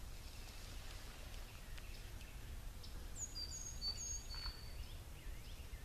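Several high, thin bird calls, each note sliding down and then holding, come about three seconds in. They sound over a faint steady low rumble with a few scattered light ticks.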